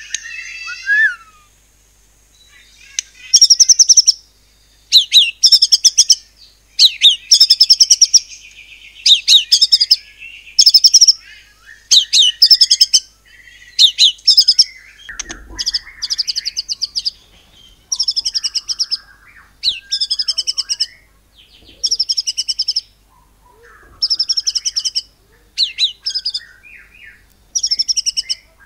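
White-rumped shama (murai batu) singing in the rapid bursting 'nembak' style: loud, high, fast-repeated note bursts about every second or two, after a short softer call at the start.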